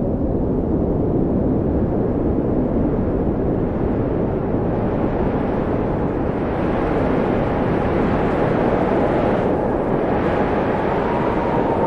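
Steady rushing wind with a faint whistle that slides up and down in pitch. The wind swells and grows hissier about halfway in.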